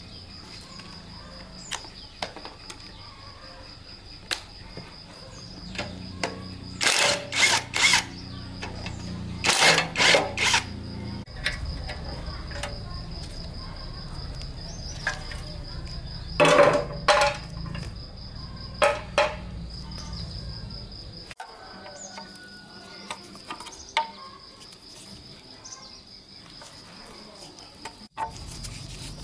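Clusters of sharp metallic clinks and knocks from hand tools on engine parts, coming in short bunches a few seconds apart, over a steady high insect trill.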